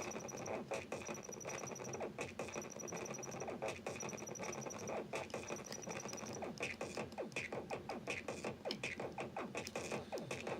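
A Teenage Engineering pocket operator drum machine playing an electronic beat loop. Short high beeps repeat about once a second in the first half, then the pattern changes to a fast run of clicky hits from about six seconds in.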